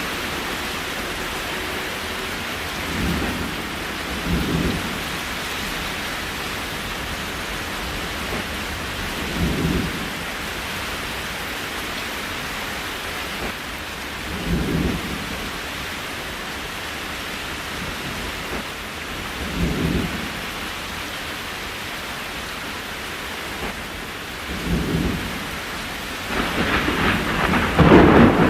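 Steady rain falling, an even hiss, with short soft low thuds about every five seconds and the rain growing louder near the end.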